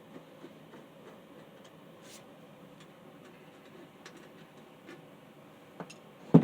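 Faint, irregularly spaced clicks and taps of metal fan parts being handled during disassembly, then one loud knock near the end.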